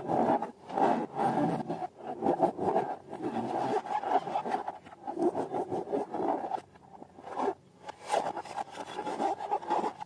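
Slime being handled and squished by hand, with balloons, in irregular crackling, rubbing bursts about once a second.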